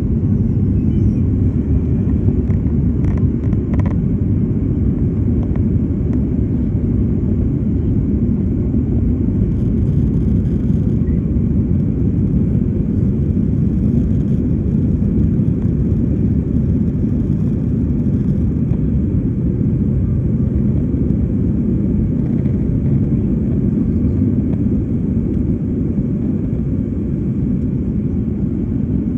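Aircraft's steady low rumble, unbroken and even in level.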